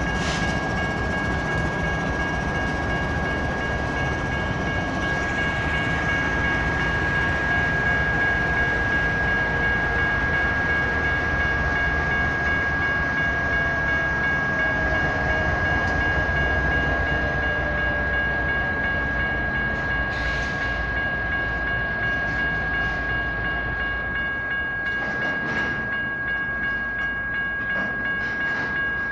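Train rolling through a railroad grade crossing: a steady rumble of wheels on rail, with a constant high-pitched ringing tone over it.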